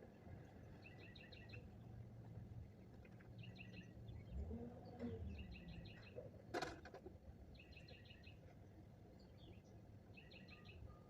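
Faint bird song: a short phrase of rapid chirps repeated about every two to three seconds, over a low steady rumble, with a single sharp click a little past the middle.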